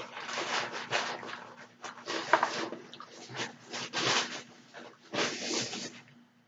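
Close-miked mouth sounds of eating spaghetti: wet chewing and smacking in irregular bursts, stopping shortly before the end.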